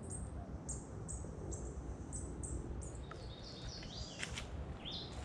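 Small birds calling: a short, high chirp repeats about three times a second, then a run of lower, stepped notes comes in about three seconds in, with another brief phrase near the end. Under it is a steady low background rumble.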